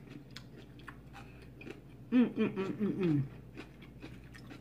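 Close-up mouth sounds of a person chewing a mouthful of vegetable nachos, with many small wet clicks and light crunches. About two seconds in, a loud voiced hum of about a second rises and falls over the chewing.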